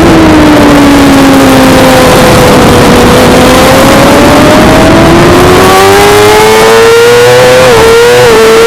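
Suzuki GSX-R600 inline-four sportbike engine heard on board at racing speed. The engine note falls as the bike slows, holds low for a couple of seconds, then climbs steadily under hard acceleration. Near the end it dips briefly twice, as with quick upshifts.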